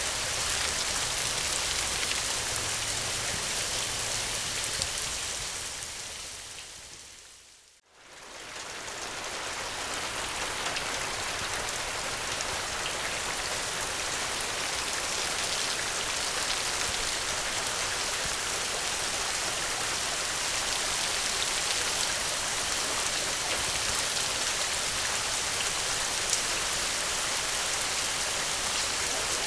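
Steady rain falling, an even hiss of drops. About eight seconds in it fades away to almost nothing and swells back up within a couple of seconds, then continues unchanged.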